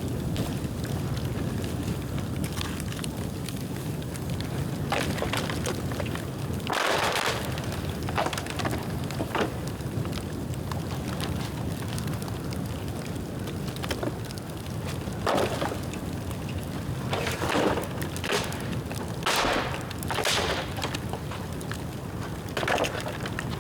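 Bonfire of dry bamboo burning with a steady low rush of flame, broken by about eight short, louder crackling bursts, most of them in the second half.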